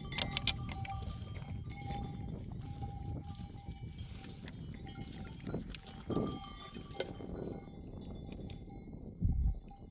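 Bells on a flock of sheep clinking and ringing in a scattered, continuous jangle as the animals move, over a low rumble. A louder low thump comes near the end.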